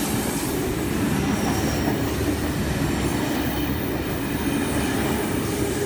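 A V-set double-deck electric intercity train running past on the rails, a steady, loud noise of wheels and running gear.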